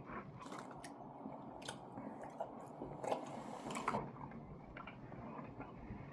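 Close-up chewing of a mouthful of steak: soft wet smacks and clicks of the mouth, a few louder smacks about three and four seconds in.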